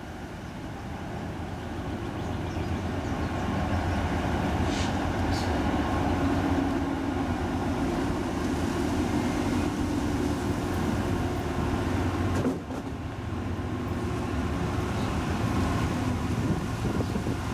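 Train passing, with a diesel engine drone that grows louder over the first few seconds and then holds steady, dipping briefly about two-thirds of the way through.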